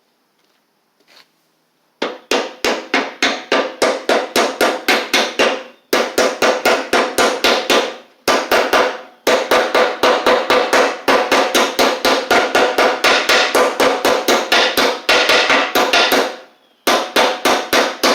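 Hammer tapping rapidly on metal, about four to five strikes a second in several runs with short pauses, each strike ringing briefly: seating a greased ball bearing back into a riding mower's deck spindle housing.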